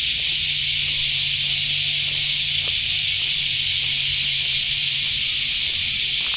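Dense, steady chorus of insects making a loud, unbroken high-pitched hiss, with a low steady hum underneath.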